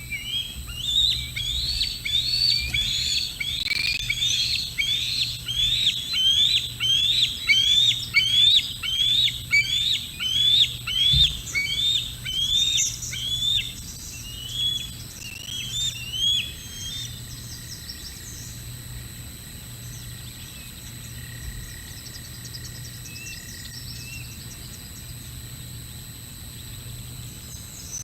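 A bird calling a long, even series of high, up-slurred notes, about three every two seconds, loud at first and trailing off after about fifteen seconds.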